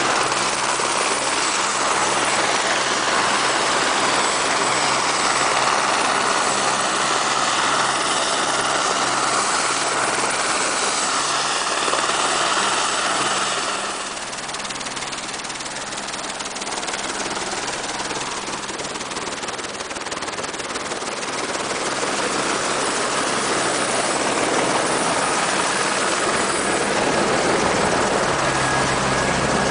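Tour helicopter's turbine engine and rotor running steadily, with a low steady hum under broad rushing noise. The noise eases somewhat about halfway through, then builds back up.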